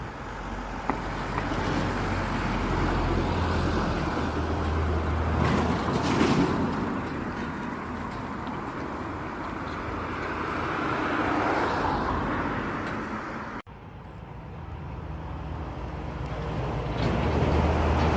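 Road traffic: vehicles passing, the noise swelling and fading twice, with a steady low engine hum at the start and again near the end. The sound drops out abruptly about two-thirds of the way through.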